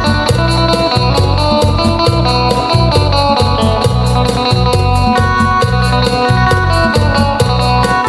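Isan phin (northeastern Thai lute) music: a quick plucked melody over a deep bass line and an even, fast drum beat.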